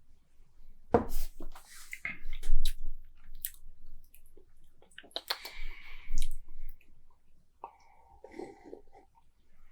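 A person sipping beer and tasting it, with wet slurps, mouth-swishing and lip smacks coming in irregular bursts.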